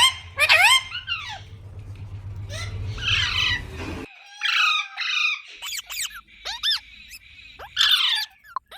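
A parrot calling in a series of short, sharp screeches, each rising and falling in pitch. About 4 seconds in, a background hum cuts off and the calls carry on.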